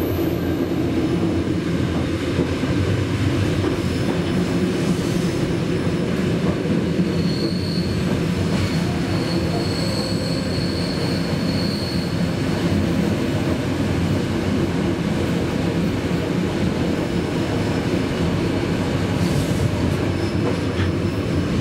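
Flåm Railway passenger carriage running on the rails, heard from inside the carriage: a steady rumble of wheels and rails. From about seven to twelve seconds in, a thin high wheel squeal rides over it.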